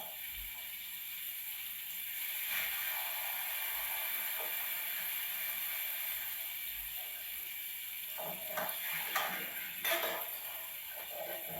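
Cookware being handled on the hob: a few clinks and knocks about eight to ten seconds in, over a steady hiss.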